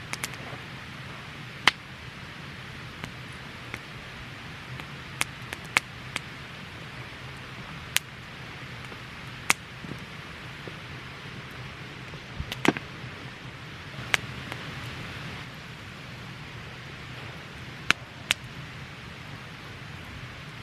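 Wood campfire burning with a steady hiss, broken by sharp, irregular pops and crackles, about a dozen spread through, two close together near the end.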